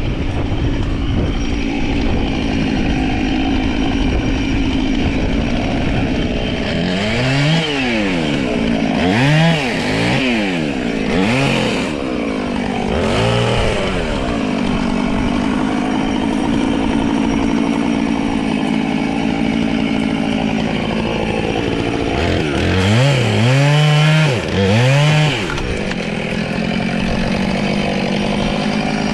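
Chainsaw engine running at a steady idle, with its pitch swooping up and down in repeated throttle revs a quarter of the way in and again near the end, as when cutting.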